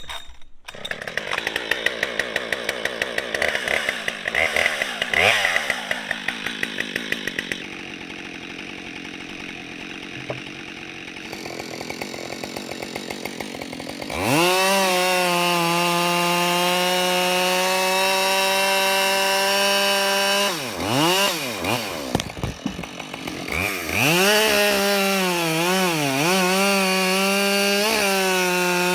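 Husqvarna 572 XP two-stroke chainsaw idling with an uneven pulsing beat, then opened up to full throttle about halfway through and run at a high, steady pitch cutting into a log. The revs dip briefly twice near the end.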